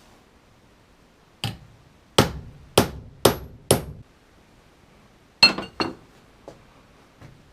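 Hammer strikes on steel: five blows about half a second apart, then two more a couple of seconds later with a short metallic ring, knocking a slotted steel leg onto its bolt on a stove made from a freon cylinder.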